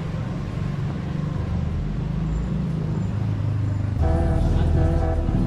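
Steady low rumble of a motor vehicle's engine running. Music starts about four seconds in.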